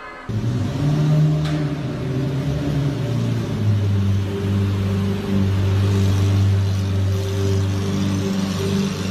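Lamborghini Murciélago's V12 engine running at a steady low idle with a deep, even note, cutting in abruptly just after the start.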